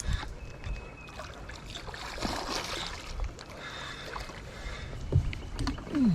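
Water sloshing around a small fishing kayak with scattered knocks on the hull while a hooked fish is fought toward the net. A short falling tone comes near the end.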